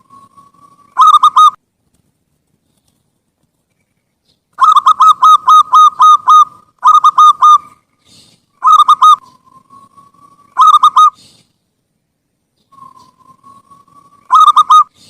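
Zebra dove (perkutut) cooing: several quick runs of short, rapid coos, some of the runs led in by a soft, slowly rising note, with pauses in between. The longest run, of about eight coos, comes a little before the middle.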